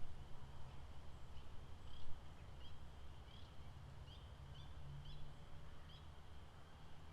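Outdoor nature ambience: a run of short, high chirps repeating about every two-thirds of a second through the middle, over a faint steady high drone and a low rumble.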